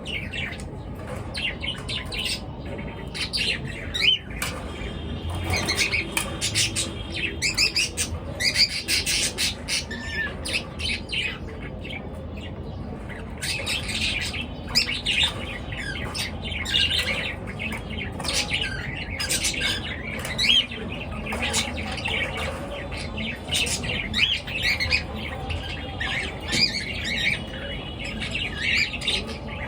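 A group of pet birds chirping and calling without pause, many short overlapping calls at once.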